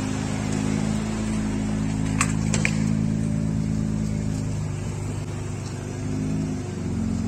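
Turbocharged 3.0-litre stroker inline-six built on a BMW M50 block, in a BMW E46, idling steadily while the car rolls slowly. A couple of short clicks a little over two seconds in.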